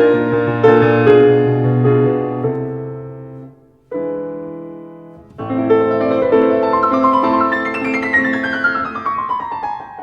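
Background piano music: sustained chords that fade almost to silence a little over a third of the way in, a single chord, then a run of quick notes descending in pitch toward the end.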